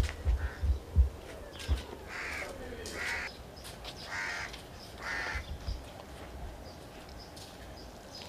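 A bird cawing: four harsh calls about a second apart, with a few loud low thumps in the first second.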